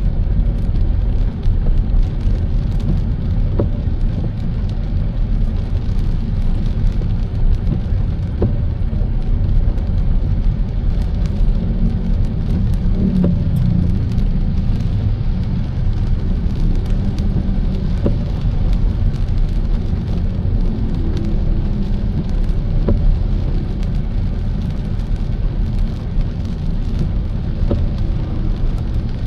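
Car driving in rain: a steady low rumble of engine and road noise, with scattered light ticks of raindrops hitting the car.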